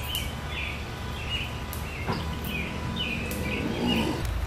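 A bird calling over and over in short chirping notes, about two a second, over a steady low background noise.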